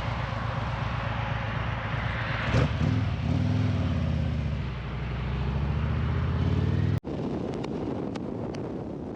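Harley-Davidson V-twin motorcycle on the move, with a steady rush of wind and road noise. From about three seconds in, the engine note rises and falls as the throttle changes. Near the end there is a few seconds of steadier rushing with a few light clicks.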